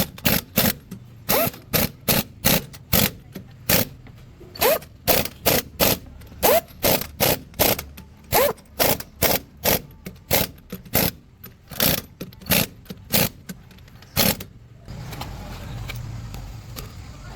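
A hand tool working on metal on the truck's axle: a fast, regular run of sharp metallic strokes, about two to three a second, some with a short ring. They stop about fourteen seconds in, leaving a steady low hum.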